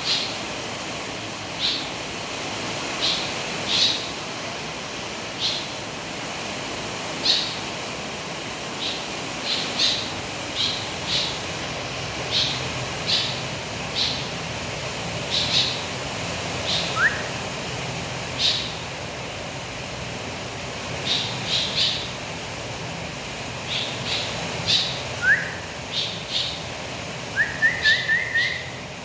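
A bird chirping in short, high notes, about one or two a second. A few short rising whistles come in about halfway through and again later, with a quick run of four near the end.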